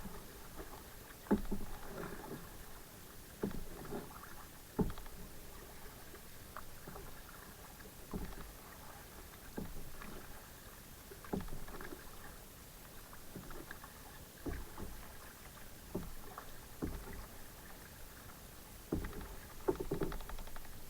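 Kayak being paddled: a short splash or knock with each paddle stroke, coming irregularly about once every second or so.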